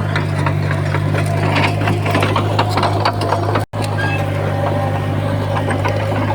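Small crawler bulldozer's diesel engine running steadily under load, with frequent clicks and clanks from the tracks and shifting stone.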